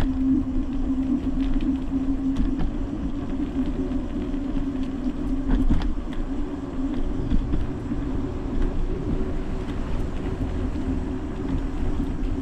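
Steady road noise of a bicycle coasting downhill: a constant hum with low rumble underneath and a few faint ticks.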